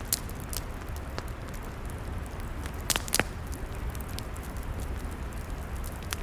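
Log fire crackling: scattered sharp snaps and pops over a steady low rumble, with two louder pops close together about three seconds in.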